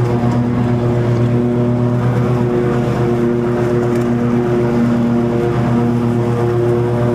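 Toro TimeCutter 50-inch zero-turn mower running steadily, its engine holding a constant pitch while the deck cuts long grass.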